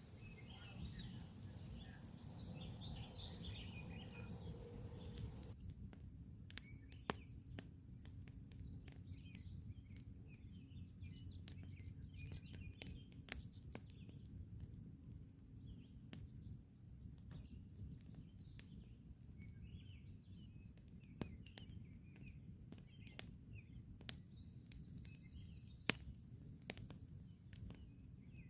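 Campfire burning, with irregular sharp crackles and pops over a low, steady rumble. Birds chirp faintly throughout.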